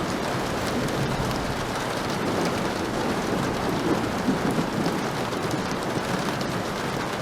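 Heavy rain falling steadily, with a low rumble of thunder swelling up around the middle and fading again.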